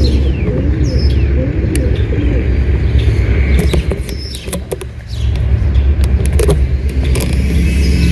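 Loud, steady low rumble of a freight train's diesel locomotives, with scattered sharp clicks and a brief drop in loudness about halfway through.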